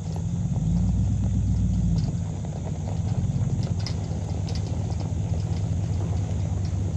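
Engine running with a low rumble, its pitch rising and falling twice in the first few seconds, then holding steady.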